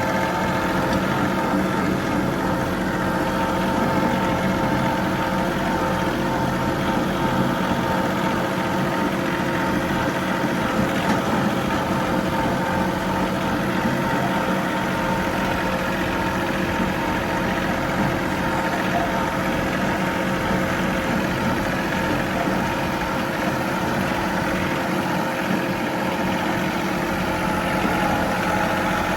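John Deere 3038E compact tractor's three-cylinder diesel engine running at a steady speed, its pitch and level unchanging.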